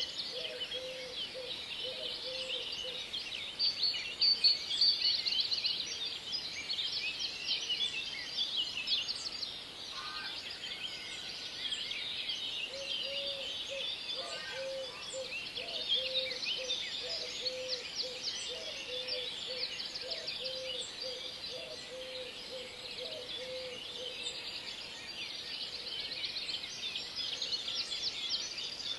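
Birds chirping in a dense chorus, with a lower call repeated in short even notes about one and a half times a second at the start and again through the middle.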